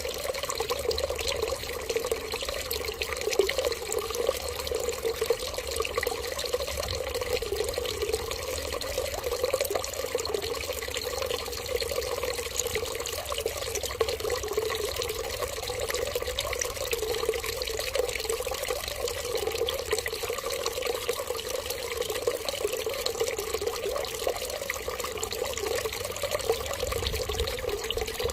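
Water running steadily in a continuous trickling rush, unchanging throughout.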